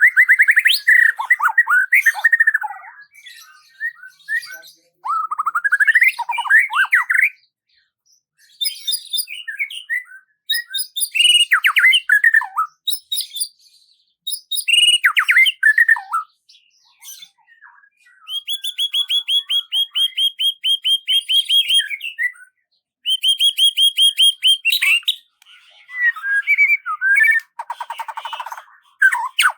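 A songbird singing a varied run of phrases, each a few seconds long with short pauses between: fast trills, quick rising and falling sweeps, and, about two thirds of the way through, a long even trill of rapidly repeated notes.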